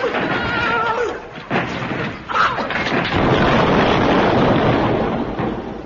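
Radio comedy sound effects: a wavering, neigh-like animal cry in the first second, then a few sharp knocks and a long stretch of loud, dense noise from about halfway in.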